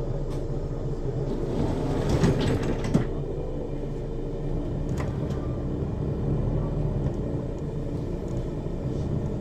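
Mercedes-Benz Citaro city bus's diesel engine running steadily. About one and a half seconds in, a bus door works with a hiss and ends in a sharp knock at about three seconds.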